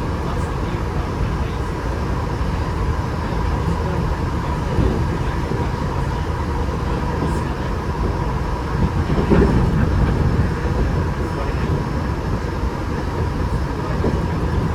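Cabin running noise of a Tokyo Metro 8000 series train at speed: a steady rumble of wheels on rail with a faint constant high tone. The noise swells briefly about nine seconds in.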